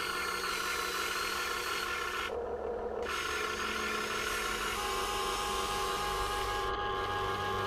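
Electric servo motors and metal gearing of a Huina 1580 all-metal RC excavator whirring and rasping as the machine works. A new set of steady whining tones comes in about five seconds in.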